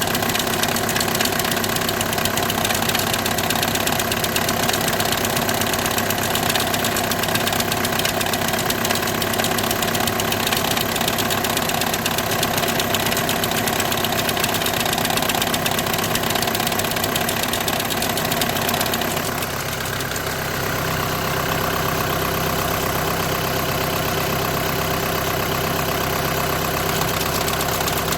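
Idling engine of a VW with a DSG gearbox, running steadily; this is the strange noise under diagnosis as a clutch plate or bearing fault. About two-thirds of the way through, the sound changes and a deeper low hum comes in.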